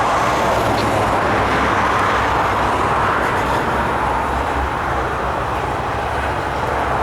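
Intermodal freight cars of a northbound train rolling past, a steady rumbling rush of wheels on rail.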